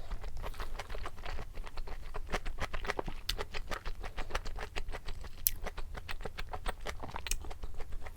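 Close-miked chewing of crunchy food: a dense, irregular run of small wet crunches and clicks.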